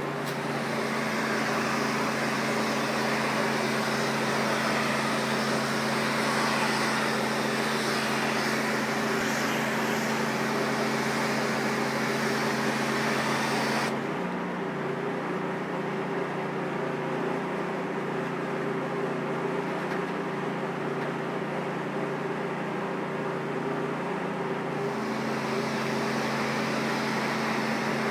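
Pressure washer running, its motor holding a steady note under the hiss of the spray. About halfway through the spray stops and the motor's note changes; the spray starts again a few seconds before the end.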